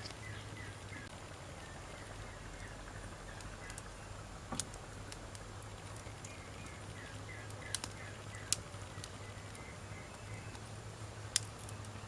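Wood fire burning, with a handful of sharp crackles and pops a few seconds apart over a steady low background. Two short runs of quick, high chirps are heard behind it, one at the start and one about two-thirds of the way through.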